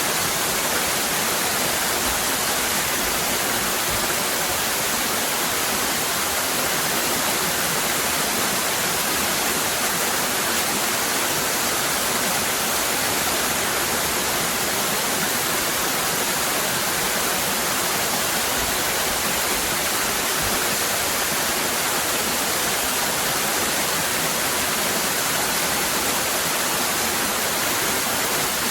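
Waterfall cascading: a steady, unbroken rush of falling water, strongest in the hiss of the upper range.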